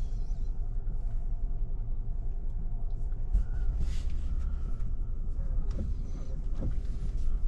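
Jeep driving slowly on a dirt trail: a steady low engine and tyre rumble, with a few light knocks and rattles scattered through it.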